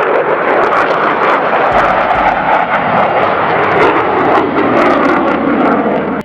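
Military jet aircraft engine noise, loud and steady, with a crackle.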